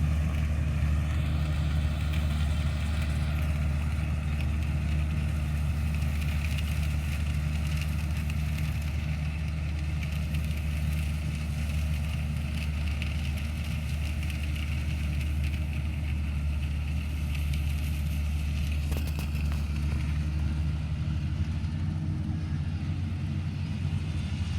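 Combine harvester engine running steadily at an even speed, a continuous low drone.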